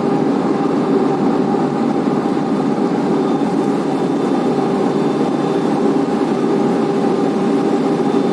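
Blast furnace main charging conveyor belt running, carrying an ore batch of sinter and lumpy ore: a loud, steady mechanical drone with a few constant hums.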